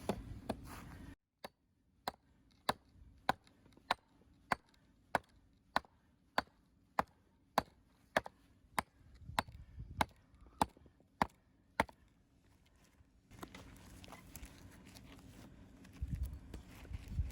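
A camping axe chopping into firewood: a run of about seventeen sharp, evenly paced strikes, roughly three every two seconds, as a log is hacked at over and over to split it.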